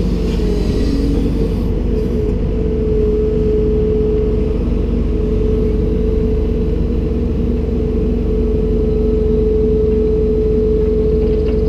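Komatsu PC290-10 excavator's diesel engine running steadily, a constant drone with a held tone over it.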